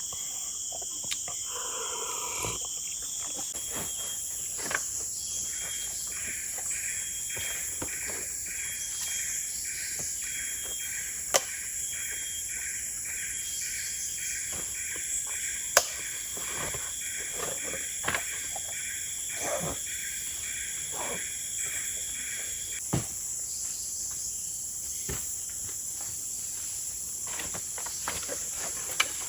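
Forest insects chirring steadily in high-pitched bands. A rhythmic pulsing call runs through the middle and stops about 22 seconds in. A few light knocks and clicks come now and then.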